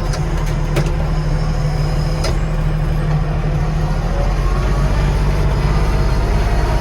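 Yanmar 235C compact tractor's diesel engine running steadily under load while pushing snow, heard from inside the cab. A couple of sharp clicks about one and two seconds in.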